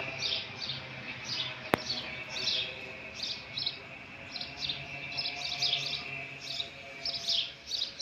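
Small birds chirping in quick, short, repeated calls, several a second, over a faint steady high tone. A single sharp click about a second and a half in.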